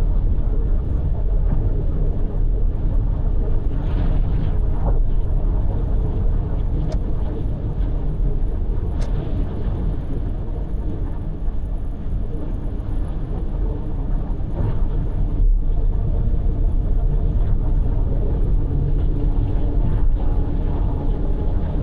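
Car driving at expressway speed: a steady low rumble of tyre and road noise with the engine underneath.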